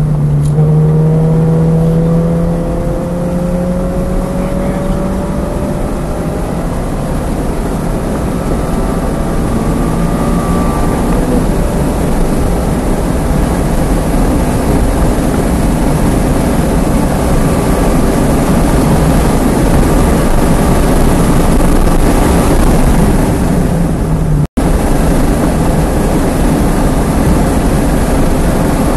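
Subaru BRZ's flat-four engine pulling hard under acceleration, heard from inside the car, its pitch rising over the first few seconds. The sound cuts out for an instant near the end.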